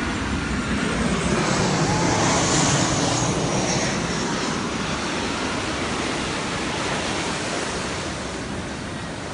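Sea surf breaking and washing up the beach, a steady rushing noise mixed with wind. It swells about two to three seconds in, then slowly dies away.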